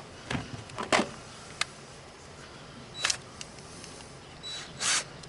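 A handful of separate clicks and knocks from tools and sheet-metal mower hood parts being handled, with a short scrape near the end; no drill is running yet.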